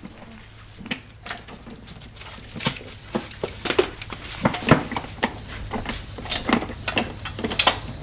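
Irregular clinks and knocks of hard objects being handled, coming more often after the first couple of seconds, over a faint steady low hum.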